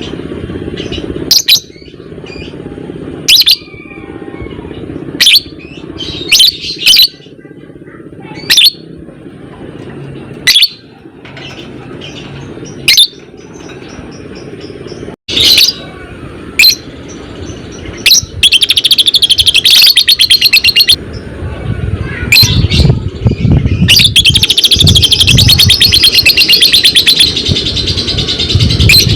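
Lovebird calling: sharp single shrieks every second or two, then a fast, rhythmic chattering trill (the 'ngekek') lasting a couple of seconds past the middle, and a longer one of about five seconds near the end.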